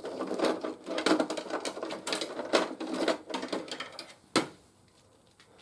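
Hard plastic action figures and accessories clicking and clattering as they are handled, a quick run of small clicks ending in one sharp click about four seconds in.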